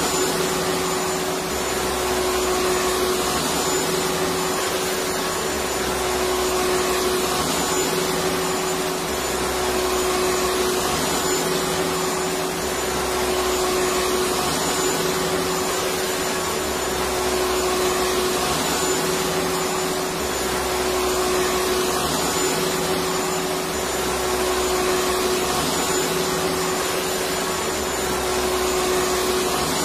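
Electric vacuum cleaner running continuously, a steady motor whine over even airflow noise, with a slight rise and fall about every two seconds.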